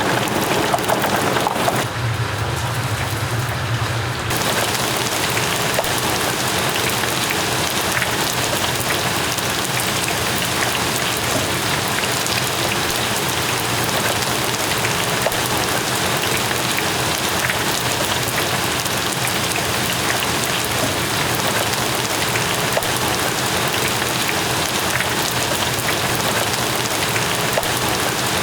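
Dumplings deep-frying in a cauldron of hot oil: a steady sizzle full of fine crackles.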